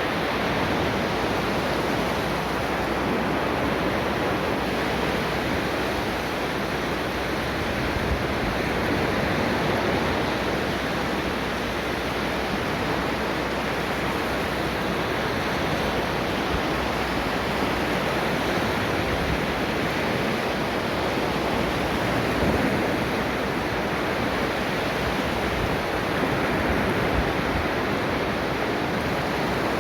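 Ocean waves breaking and washing on a shore in a steady, continuous surf wash, swelling gently in loudness now and then.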